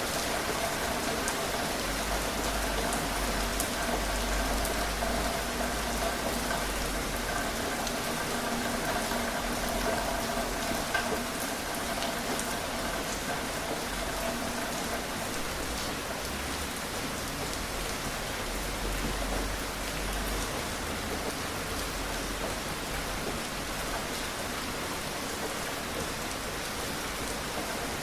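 Steady rain falling, with separate drops ticking through it.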